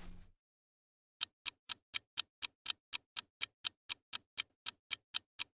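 Clock-ticking countdown sound effect: sharp, evenly spaced ticks about four a second, starting about a second in after a short silence.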